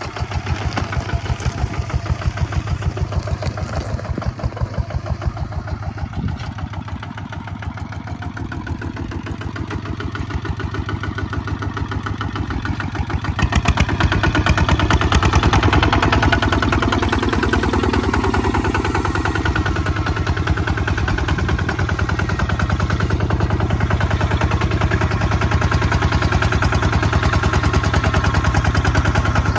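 Kubota ZT 155 DI single-cylinder diesel engine running under plowing load with a fast, even chug, getting louder about halfway through.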